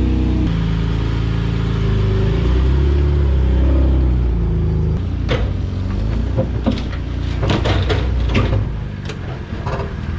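A car engine running steadily at idle, then a series of sharp clicks and knocks over a few seconds, after which the engine sound drops away near the end.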